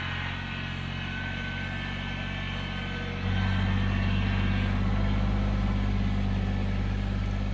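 Kubota BX23s compact tractor's three-cylinder diesel engine running steadily, turning suddenly louder about three seconds in.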